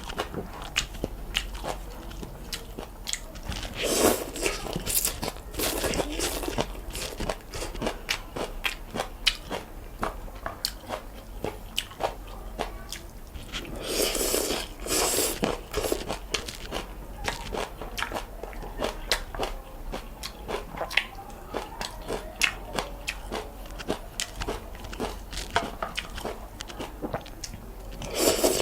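Close-miked eating of noodles: a steady run of small wet chewing clicks, with louder, longer slurps about four seconds in, around the middle and at the very end.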